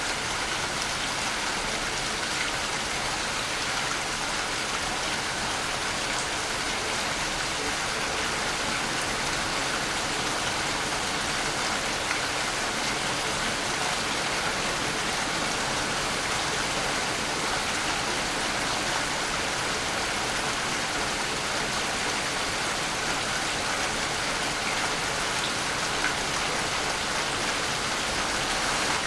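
Waterfall: falling water rushing and splashing in a steady, unbroken hiss.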